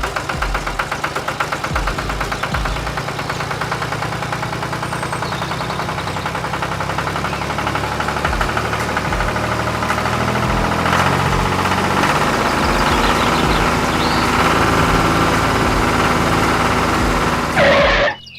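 Engine-like running sound with a fast, even pulse over a steady low hum, getting a little louder over time. A brief louder burst comes near the end, then the sound cuts off suddenly.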